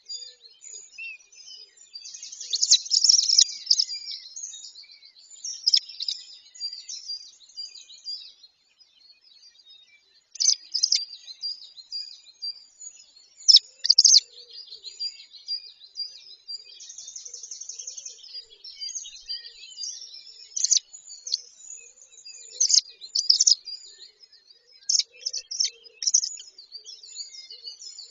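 Birds chirping and calling in quick, high-pitched bursts, with a steady trill lasting about two seconds just past the middle.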